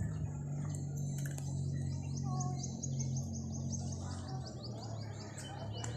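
A small bird sings a fast trill of high, repeated downward-slurred notes, about six a second, starting about two seconds in and fading near the end, over a steady low hum.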